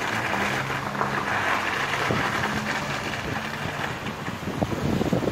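A vehicle engine running steadily under a rushing noise of wind, with irregular low buffets on the microphone near the end.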